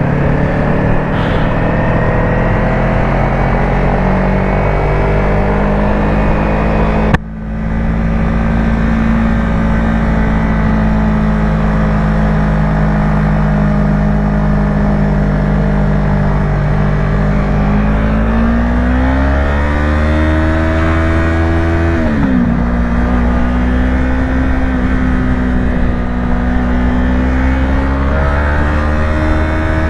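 Yamaha YZF-R3 parallel-twin engine running at steady highway speed, with road and wind noise. The sound breaks off sharply about a quarter of the way in. Later the revs climb for a few seconds and then drop suddenly, as on an upshift, before settling steady again.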